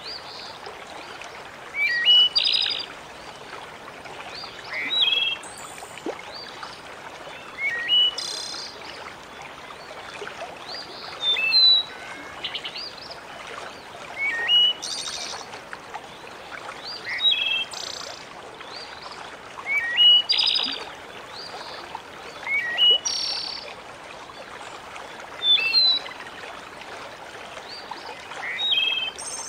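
A songbird calling in short chirping phrases that recur about every three seconds, over a steady hiss of flowing water.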